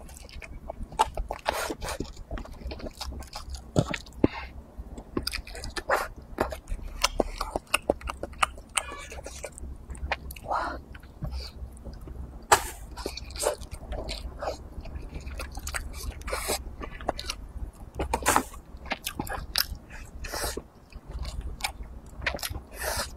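Close-miked chewing and biting of braised pig's trotter: an irregular run of short mouth clicks and smacks.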